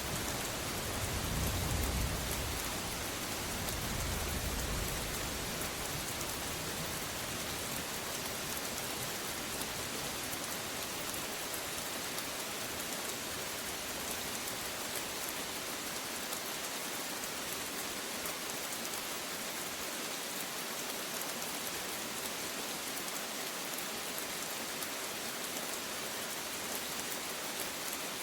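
Steady rain falling, an even hiss of drops, with the last low rumble of thunder dying away in the first few seconds.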